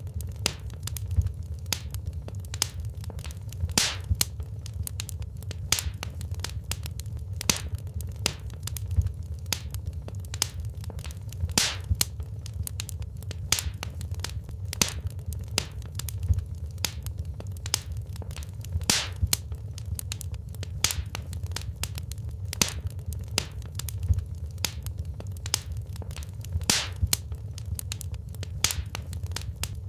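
Wood fire burning in a fireplace: frequent irregular crackles and sharp pops from the burning logs over a steady low rumble of the flames.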